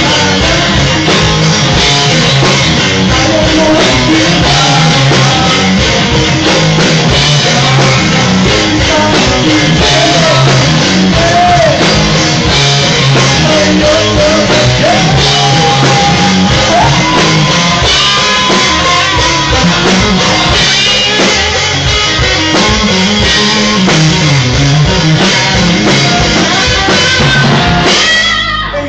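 Rock band playing live, with electric guitar and drum kit, at a steady loud level; the music stops abruptly near the end.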